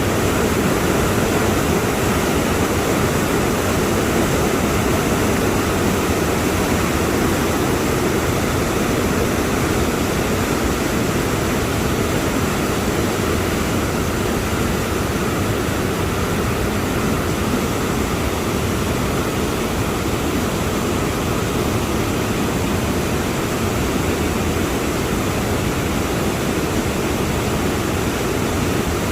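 A waterfall's falling water rushing in a loud, steady, unbroken noise.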